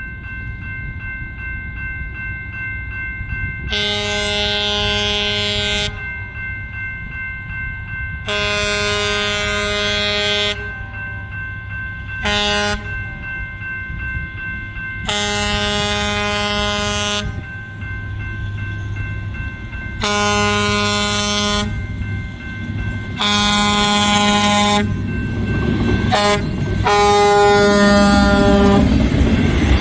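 Train horn sounding the grade-crossing signal, long, long, short, long, twice in a row, over the steady rumble of a diesel engine that grows louder near the end as the train approaches.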